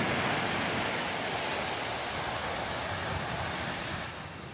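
Low, gentle surf washing steadily onto the beach at low tide, easing off slightly near the end.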